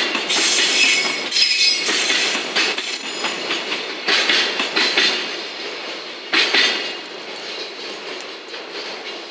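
Container flatcars of a JR Freight train rolling past: wheels clattering over rail joints with short high-pitched wheel squeals. The sound fades from about two-thirds of the way through as the last wagon goes by.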